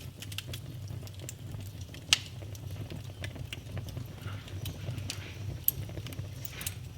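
Wood fire in a fireplace crackling, with many small scattered pops and two sharper, louder snaps, one about two seconds in and one later on, over a steady low rumble.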